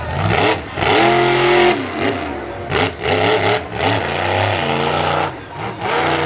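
Monster truck engine revving hard in repeated bursts, its pitch climbing and dropping several times.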